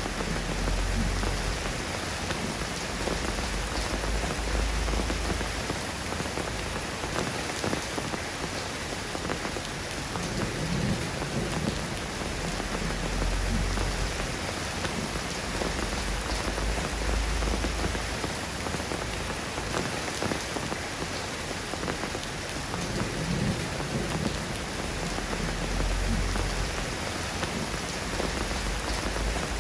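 Steady rain falling on a surface, an even hiss of many drops, with low rumbling swells that come and go underneath every few seconds.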